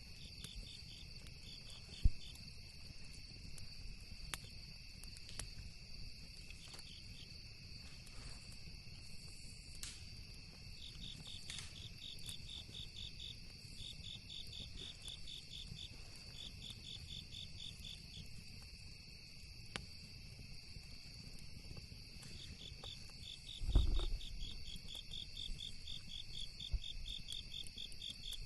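Insects chirping steadily in fast pulsed trills over a campfire crackling with scattered sharp pops, one loud snap about two seconds in. A dull thump with a brief rumble comes near the end.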